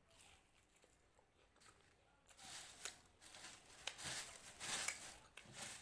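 Hands mixing dry puffed rice (muri) with chanachur and chopped vegetables in a bowl: a soft, irregular crisp rustling and crackling that starts about two seconds in.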